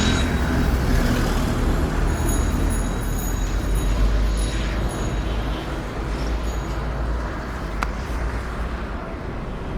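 Street traffic: a heavy motor vehicle's low engine rumble that slowly fades away, with a single sharp click about eight seconds in.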